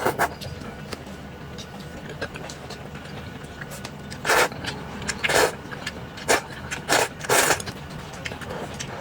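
Close-miked eating of corn noodles, with a run of five short, noisy slurps about four to seven and a half seconds in, over a low steady hum.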